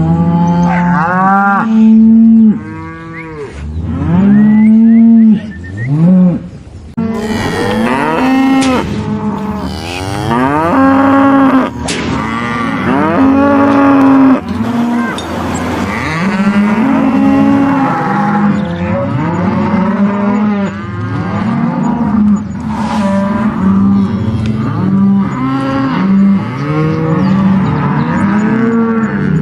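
Many cattle mooing, long calls overlapping one another with hardly a gap, each rising and falling in pitch.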